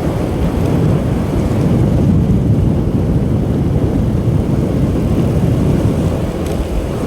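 Motorcycle riding at speed: wind buffeting the microphone, a steady low rumble mixed with road and engine noise.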